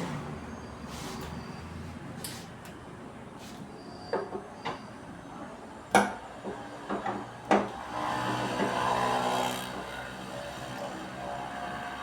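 Tools and parts being handled on a workbench: scattered sharp knocks and clicks from about four seconds in, with a stretch of rubbing or scraping just past the middle.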